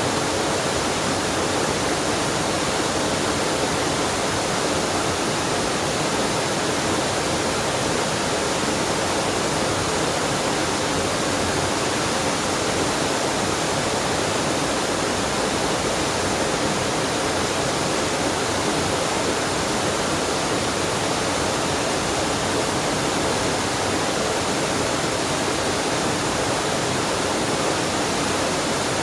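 Waterfall on a mountain stream: water falling and rushing in a steady, unbroken noise.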